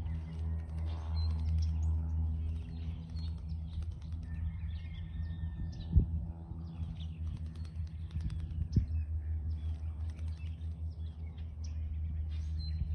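Small birds chirping in short high calls over a steady low hum, with two sharp knocks partway through.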